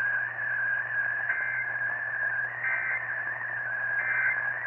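Weather-radio receiver giving a steady, slightly wavering high whistle over a low hum, with short higher blips about a second and a half, two and a half and four seconds in; the sound is narrow and tinny, like reception through a radio.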